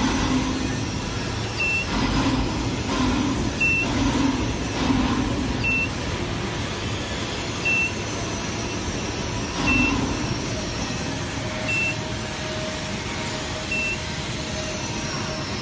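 A short, high electronic beep repeating about every two seconds over a steady din of machinery.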